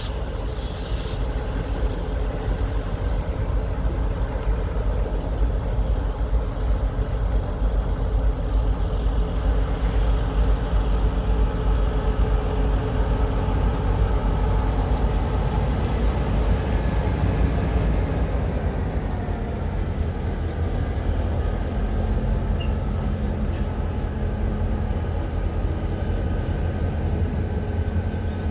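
Diesel-electric freight locomotives running with a steady low rumble, their engine note shifting and changing pitch about twenty seconds in.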